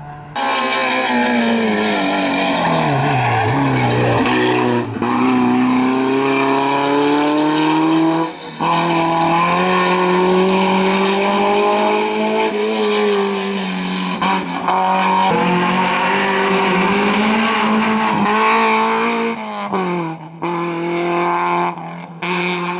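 Rally car engine at high revs under hard driving, its pitch sliding down over the first few seconds and then climbing, with brief cuts about four times as the driver lifts off or changes gear.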